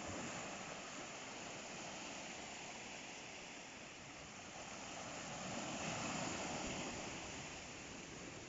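Atlantic ocean surf: waves breaking and washing up the shore in a steady rush, swelling twice, at the start and again about six seconds in.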